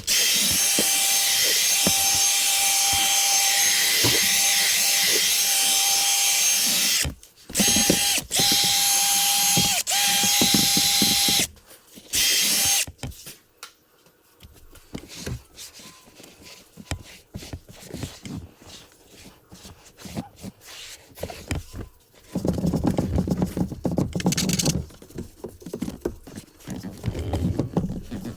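A power tool used in car detailing runs with a loud, steady hiss and a thin whine, in three bursts of about seven seconds, four seconds and one second. After that come quieter scattered rubbing and clicking handling sounds.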